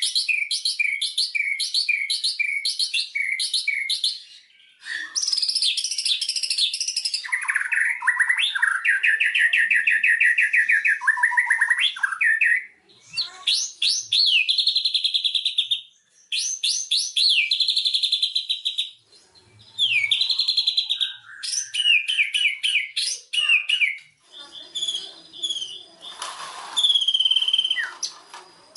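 White-rumped shama singing a long, varied song of rapid repeated whistled notes, trills and sweeping phrases, delivered in loud bursts separated by brief pauses.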